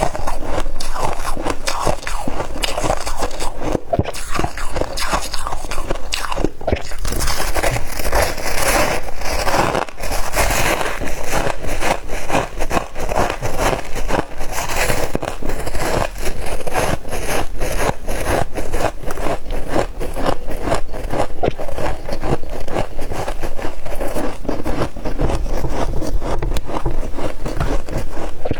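Close-miked biting and chewing of crispy humidifier ice: a dense, unbroken run of crunches and crackles.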